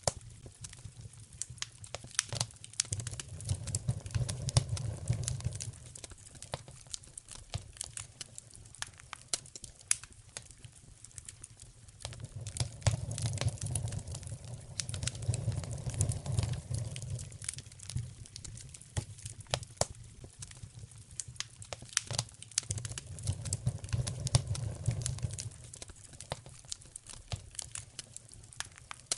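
Wood fire in a fireplace crackling and popping with many sharp snaps. A low rumble swells up and fades three times.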